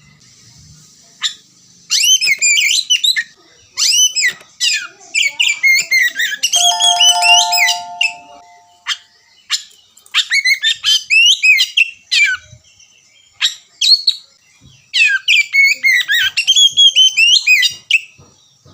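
Oriental magpie-robin singing in four bouts of rapid, varied whistled phrases with short pauses between them. Around the middle, a brief steady tone with overtones sounds alongside the song.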